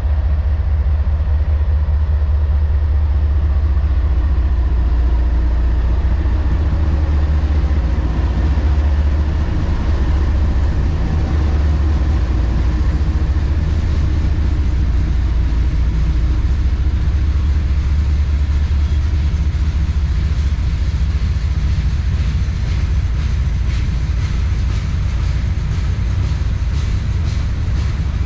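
Slow-moving CSX freight train passing, with a steady low rumble. In the last several seconds, repeated clicks of wheels over rail joints build up.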